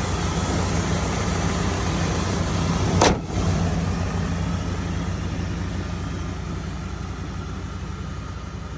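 1999 Dodge Ram 1500 Sport's engine idling steadily, with one sharp loud thump about three seconds in; the engine sound grows gradually fainter afterwards.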